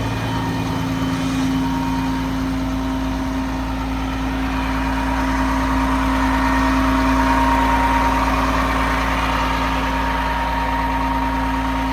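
2006 Peterbilt 335 truck's diesel engine running steadily at idle, with a steady whine on top.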